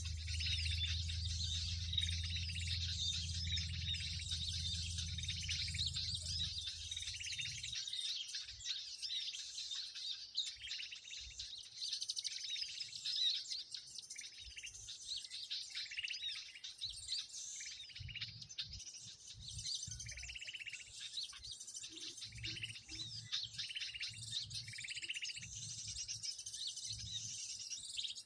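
Dense, continuous high twittering of many small birds calling at once, a 'burung ribut' lure recording of the kind played to draw birds onto birdlime. A low hum underneath stops about seven seconds in.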